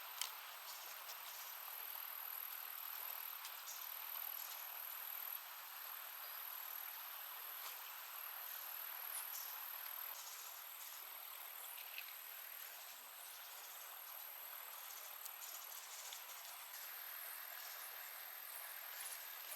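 Insects, crickets by their sound, trilling steadily at a very high pitch over a soft, even hiss, with scattered small clicks, the sharpest just after the start.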